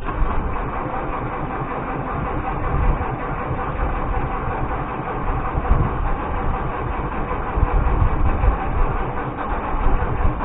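International Harvester UD-236 diesel of a Galion 503 grader starting cold after sitting for months and running unevenly, with irregular low pulses: the engine is hard to start and struggles to stay running in the cold.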